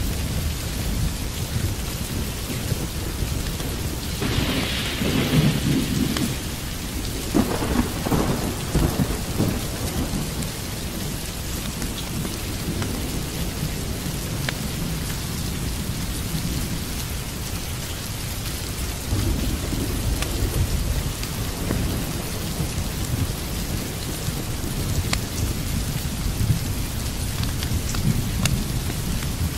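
Steady rain, with rolling thunder that swells loudest about four to nine seconds in and rumbles again more softly later on.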